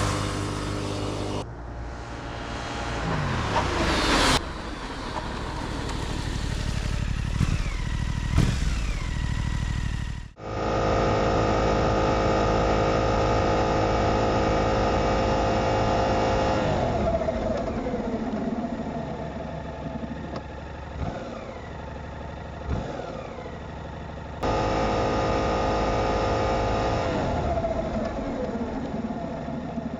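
Suzuki GSX-8S motorcycle's 776 cc parallel-twin engine heard onboard, revs rising in the first few seconds, then long stretches held at a steady engine speed with the pitch easing down in between. The sound changes abruptly several times, as if from one run to the next.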